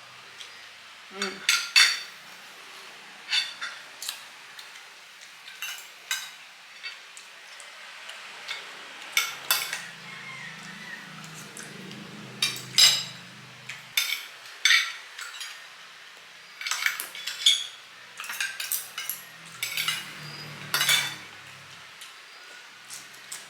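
Cutlery clinking and scraping against plates and bowls during a meal: irregular sharp clinks, several at a time, spread throughout.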